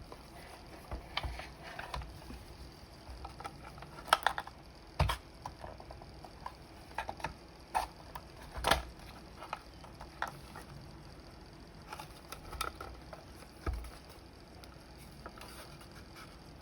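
Irregular small clicks and light knocks of the plastic and metal parts of a vintage flip clock being handled during disassembly.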